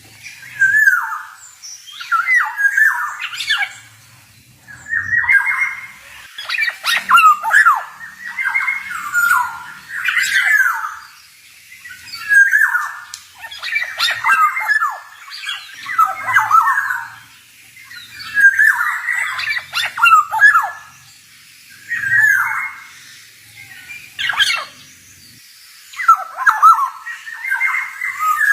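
Male black-naped oriole (kepodang) singing: short, loud phrases of whistled and harsher notes, repeated every second or two with brief pauses.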